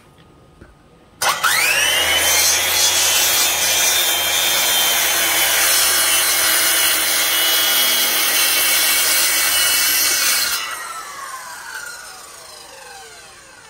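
Handheld circular saw starting with a rising whine, cutting through a pine board for about nine seconds, then released and spinning down with a falling whine, a click near the end.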